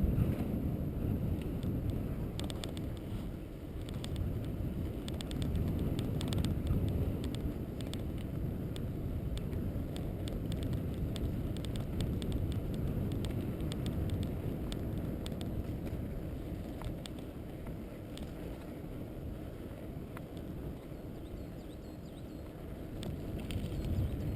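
Steady low rumble with wind buffeting the microphone, overlaid by scattered light clicks and rattles, as of travelling along a rough road.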